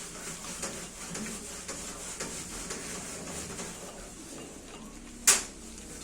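Light scattered clinks of metal parts and tools being handled, then one sharp, loud metallic clank a little after five seconds in.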